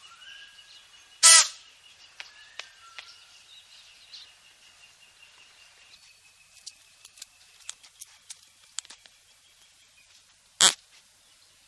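Outdoor ambience with faint bird chirps and scattered small clicks. There are two short, loud calls, one about a second in and one near the end.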